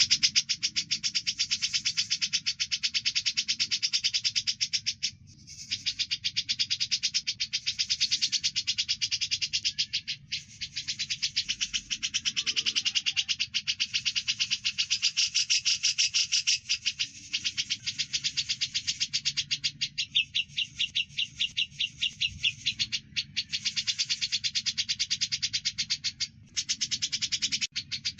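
Cucak jenggot (grey-cheeked bulbul) and Eurasian tree sparrow calls mixed together: dense, very rapid high chirping and chattering that runs almost without a break, pausing briefly about 5, 10 and 26 seconds in.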